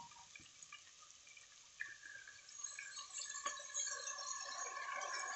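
Washed rice and dal poured from a steel plate into a pressure cooker of hot sautéed vegetables: faint pattering of wet grains at first, then a hissing sizzle that builds from about two seconds in as the wet grains meet the hot oil.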